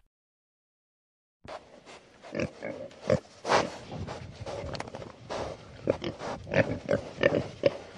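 Wild boar grunting: after about a second and a half of silence, a run of short, irregular grunts with snuffling between them, coming closer together near the end.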